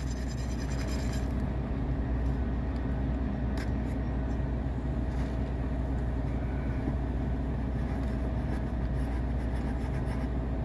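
An engine idling steadily, a low even hum, with a few faint clicks over it.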